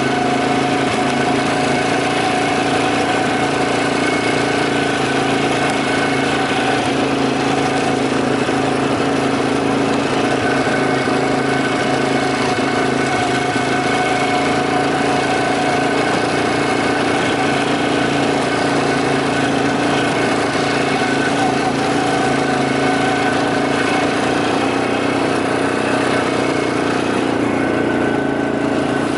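Quad bike engine running steadily, its pitch holding level with no revving.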